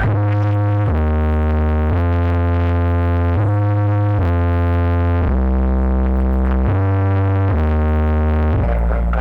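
Bass-heavy synthesizer music played loud through a sound system's subwoofers: a run of long, held low notes that step to a new pitch every second or so.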